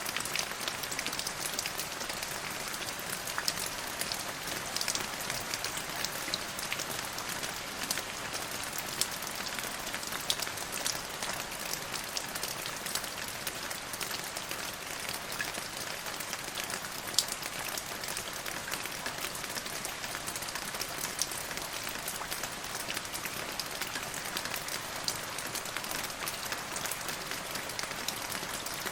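Steady rain falling on a surface, an even patter with many individual drops ticking sharply.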